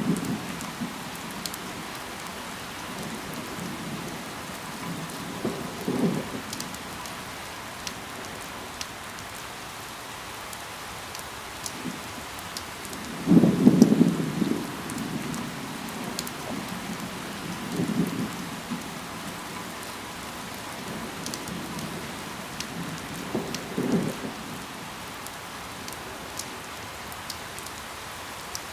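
Steady rain falling on leaves and ground, with scattered sharp drop ticks. Short low swells come every few seconds, the loudest about halfway through.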